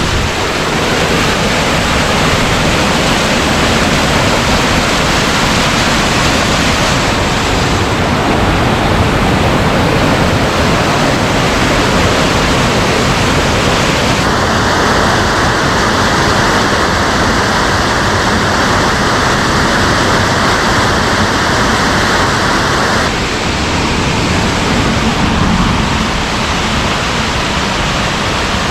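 Steady, loud rush of water from a mountain stream or waterfall. Its tone shifts for several seconds in the middle.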